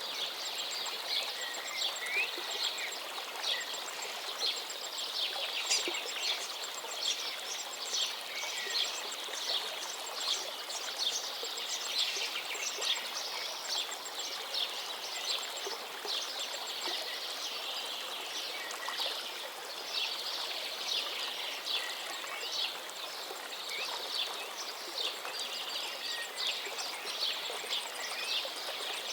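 Many small birds chirping and singing in short, quick notes over the steady sound of a gently flowing river.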